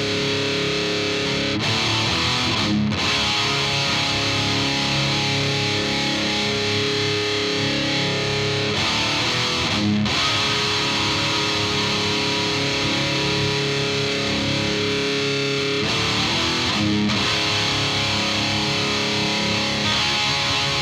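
Distorted electric guitar chords ringing out at an even, heavily compressed level, recorded through a UAD Volt 276 interface with its 76 compressor in Vintage mode, the setting that produces popping artifacts. The chords change a few times, with short breaks at the changes.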